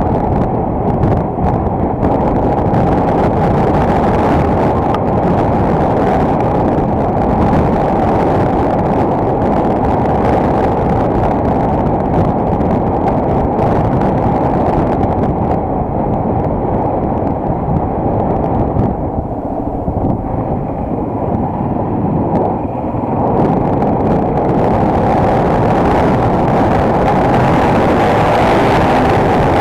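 Single-cylinder enduro motorcycle running under way, its engine noise mixed with wind buffeting the action camera's microphone and sounding dull and muffled. The engine eases off briefly a bit past the middle, then picks up again.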